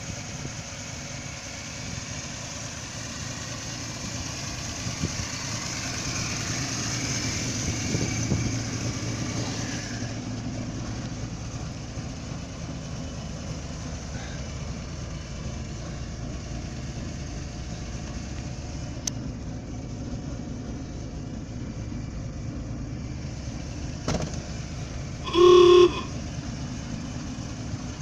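A 1929 Buick's overhead-valve straight-six engine idling steadily, a little louder for a few seconds about a quarter of the way in. Near the end the car's horn sounds once, a short honk of about half a second, louder than the engine.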